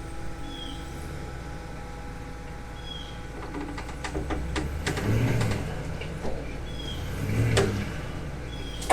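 A truck engine running under load in four-low, pulling on a rope, with scattered metal knocks and creaks from the excavator part being dragged over. The engine swells twice, about five and seven and a half seconds in.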